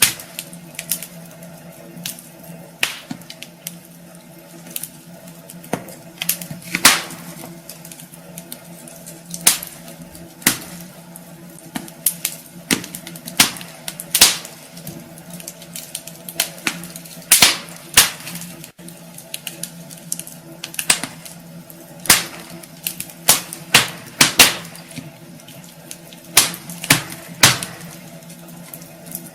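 Wood fire burning in a fireplace, crackling and popping at irregular intervals, some pops much sharper than others, over a faint steady low hum.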